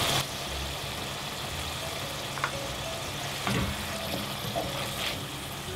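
Diced onions and a bunch of thyme sizzling gently in hot oil in a pot, with a few light knocks of a wooden spoon stirring them.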